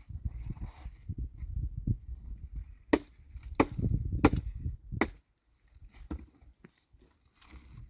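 Four sharp knocks, evenly spaced about two-thirds of a second apart, over low rumbling handling noise.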